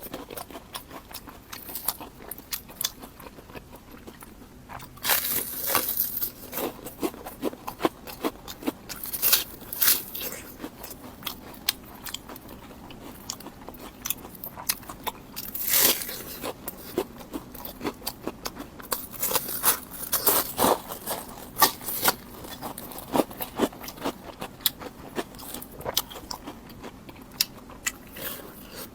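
Deep-fried bread being bitten and chewed close to the microphone: crisp crackling crunches come in irregular clusters, with several louder bites scattered through.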